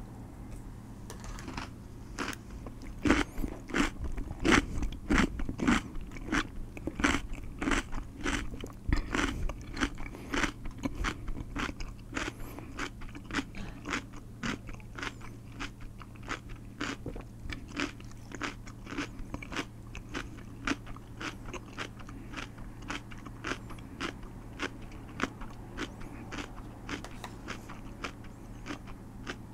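A man chewing crunchy food right at a condenser microphone: a steady run of crisp crunching bites, about three a second, loudest in the first several seconds and softer as the chewing goes on.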